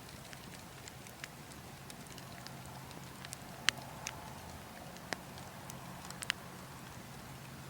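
Burning logs crackling, with irregular sharp pops and snaps, the loudest about halfway through, over a steady low rush of wind.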